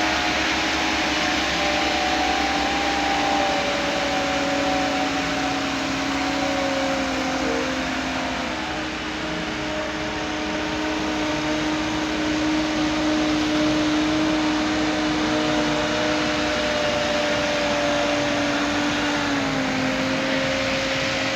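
Heavy machinery engine running steadily, with a whine whose pitch slowly drifts up and down as the revs change.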